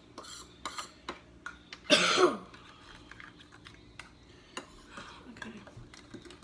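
A single short cough about two seconds in, over faint small clicks and taps of a spoon stirring baking soda into warm water in a small cup.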